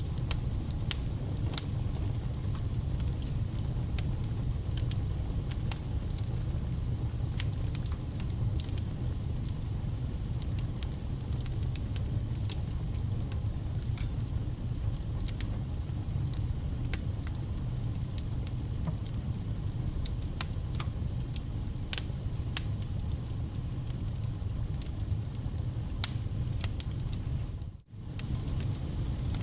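Wood fire burning: a steady low rumble with scattered sharp crackles and pops. The sound cuts out for a split second near the end.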